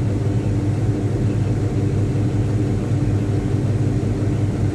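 Caterpillar 777D haul truck's diesel engine running steadily on a stationary ground test, a constant low hum with no change in speed.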